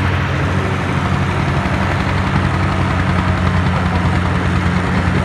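Tractor diesel engine running steadily, with a fast, even beat of firing pulses.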